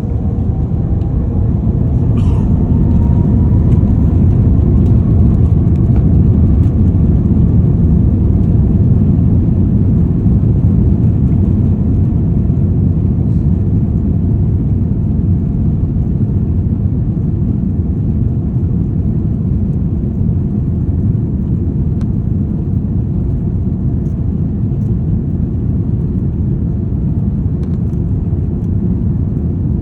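Airbus A330 jet engines at takeoff power: a loud, steady low rumble that swells over the first few seconds and then eases slightly. A faint whine rises in pitch during the first couple of seconds.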